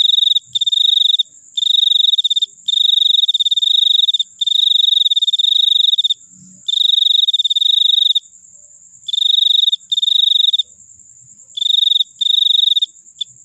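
Cricket calling loudly and close up, in high trilling bursts of about half a second to a second and a half separated by short pauses. A steady, higher, thinner tone runs unbroken underneath.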